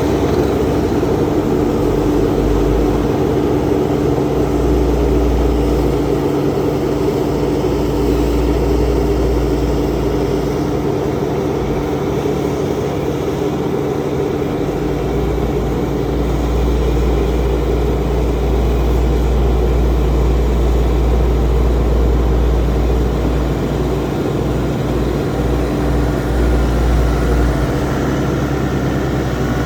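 Steady drone of heavy engine machinery with a constant hum, over a deep rumble that swells and fades several times.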